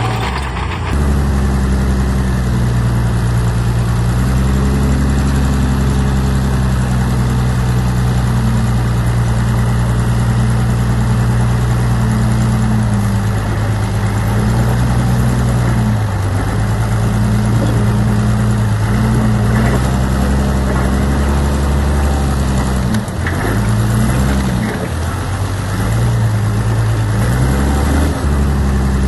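Heavy diesel earthmoving machinery running steadily, the engine note dipping and coming back up several times.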